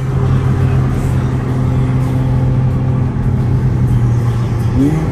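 Car engine running at a steady cruise with a constant drone, its pitch rising slightly near the end as the revs pick up.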